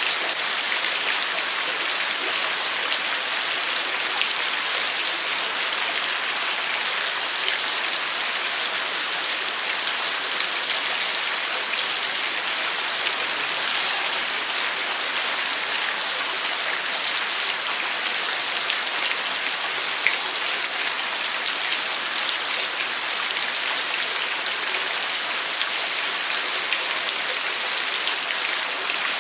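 Steady rain falling, an even hiss of many drops with faint scattered ticks of single drops.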